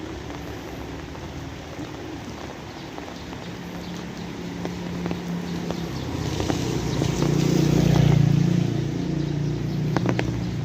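Steady rain with a motor vehicle passing by, growing louder to a peak about eight seconds in and then fading.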